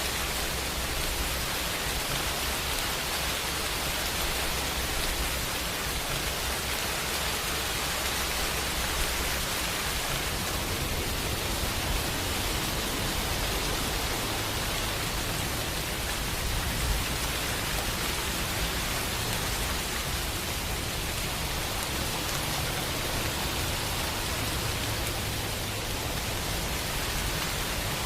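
Steady, heavy rain falling as a dense, even hiss, with a low rumble underneath that grows stronger about ten seconds in.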